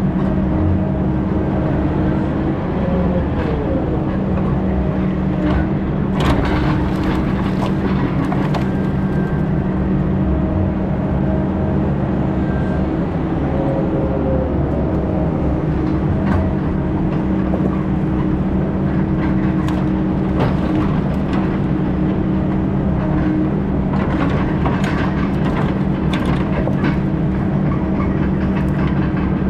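Heavy logging machine's diesel engine running steadily, with scattered knocks and cracks, mostly about a fifth of the way in and again near the end.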